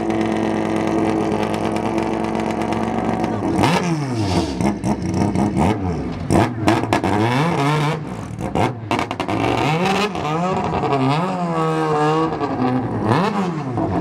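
Mazda rotary-engined race car running at a steady idle, then revved in a series of quick blips that rise and fall in pitch, starting about three and a half seconds in.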